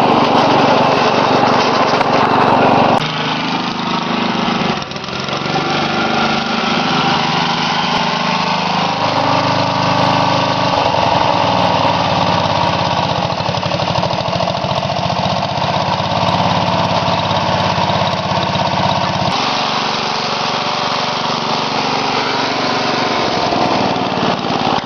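Craftsman lawn tractor's 8 hp Briggs & Stratton single-cylinder engine running, its speed shifting several times: it drops about three seconds in, dips briefly near five seconds, and changes pitch again near eleven and twenty seconds.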